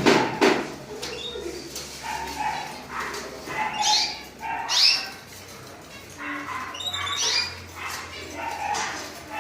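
Red agate canaries giving short rising chirp calls a second or more apart, among other intermittent animal calls, with a loud burst of sound right at the start.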